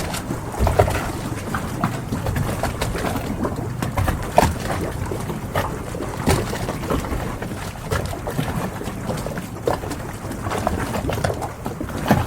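Harbour ambience: a steady wash of water and air, with frequent small knocks and creaks from boats and short bird calls scattered throughout.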